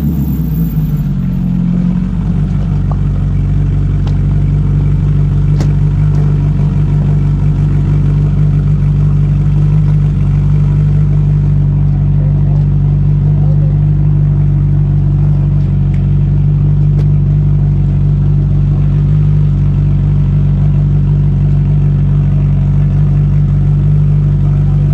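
Off-road race car's engine idling steadily during a pit stop, its revs settling down over the first couple of seconds and then holding even.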